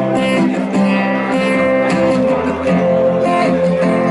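Live band music in an instrumental gap between vocal lines, with guitar to the fore.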